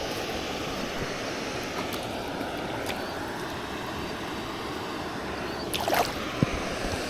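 Water rushing steadily below a river dam. About six seconds in there is a brief rising squeak, then a single click.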